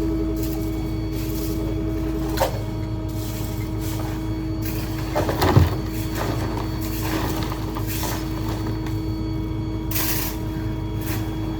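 Ford F-550 New Way Diamondback rear-load garbage truck running, with a steady whine over the engine. There is a click about two and a half seconds in, a short louder clatter about five and a half seconds in, and a brief hiss near the end.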